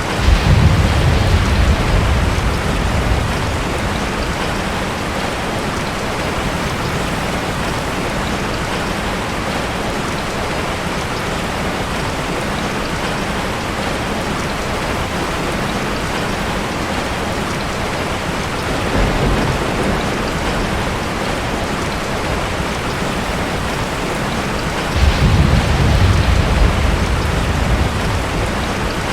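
Steady heavy rain with rolling thunder: a rumble right at the start lasting a few seconds, a shorter one about two-thirds of the way through, and another near the end.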